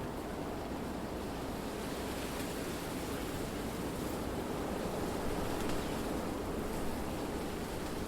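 Wind blowing through trees, a steady rushing that swells slightly partway through.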